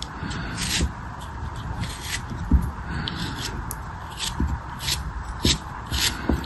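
A run of short, crisp scraping and crunching strokes at an irregular pace, roughly one or two a second, over a steady hiss.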